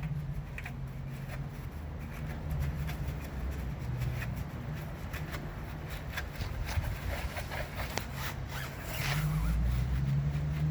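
Brush scrubbing a car tire: a run of short, irregular rubbing scrapes, thickest about halfway through, over a low steady hum.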